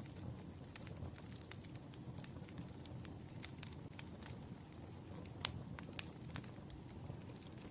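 Firewood burning: a steady low rumble of flames with irregular sharp crackles and pops from the logs, the loudest pop a little past halfway.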